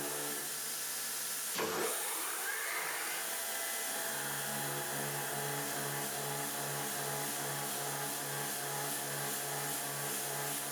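CNC milling machine running during high-feed milling. About a second and a half in there is a sharp knock, then a whine that rises in pitch as the spindle speeds up, settling into a steady, evenly pulsing machine hum.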